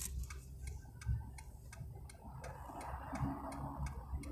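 Faint, regular ticking, about three clicks a second, over a soft low rumble.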